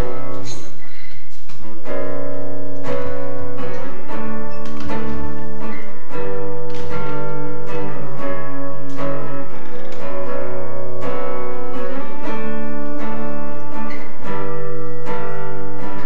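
Acoustic guitar strummed, the chords changing every second or two: the instrumental intro of a song.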